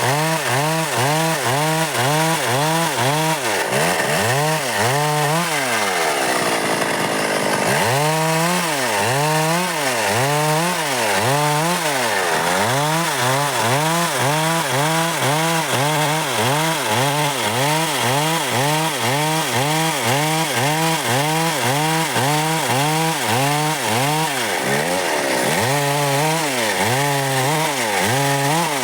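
Stihl MS 382 two-stroke chainsaw cutting dry wood, its engine pitch rising and falling about once a second as the chain loads up and frees. Around six seconds in it runs for a moment at steady high speed, then the rise-and-fall cutting rhythm resumes.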